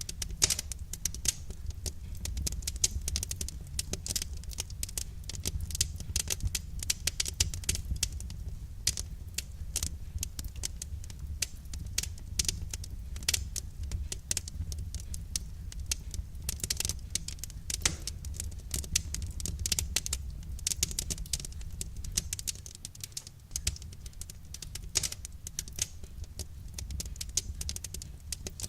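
Wood fire crackling: a dense, irregular run of small sharp snaps and pops over a low, steady rumble.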